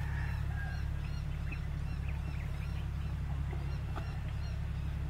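Scattered short, high bird chirps over a steady low hum.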